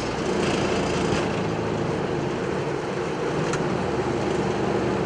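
Flight-deck noise of a Boeing 777-200LR at takeoff thrust during rotation and liftoff: a steady rush of GE90 engine and airflow noise. The low runway rumble drops away about a second in, as the wheels leave the ground, and there is a faint click later on.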